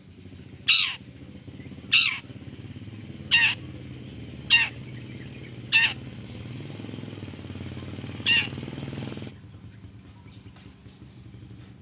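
Long-tailed shrike giving harsh, screechy calls, each sweeping downward in pitch: six calls about one to two seconds apart, over a low steady background hum. The hum drops away suddenly about nine seconds in.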